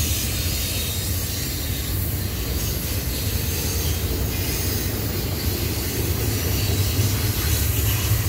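Double-stack intermodal freight train's well cars rolling past: a steady low rumble of steel wheels on rail.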